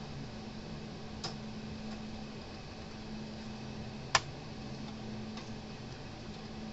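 Two sharp clicks from small tools or parts being handled on a workbench, a faint one about a second in and a louder one about four seconds in, over a steady low hum.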